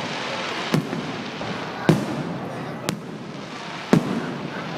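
Fireworks going off, four sharp bangs about a second apart over a steady background hiss.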